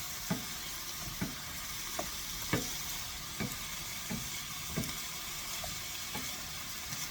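Sliced zucchini, yellow squash and garlic sautéing in a pan with a steady sizzle, stirred with a utensil that knocks against the pan about every 0.7 seconds.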